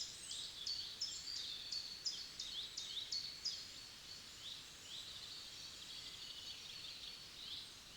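Forest songbirds singing: a quick series of high, sharply falling chirps in the first half, running into softer continuous twittering. Underneath is a faint steady background hiss.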